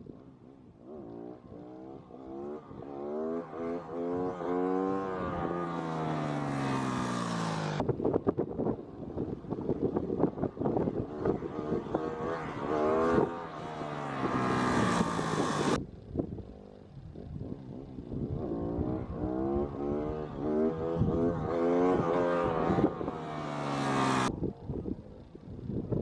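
Motorcycle engine revving hard under acceleration for wheelie attempts, its pitch wavering as the throttle is worked. It builds three times and is cut off sharply each time, about every eight seconds.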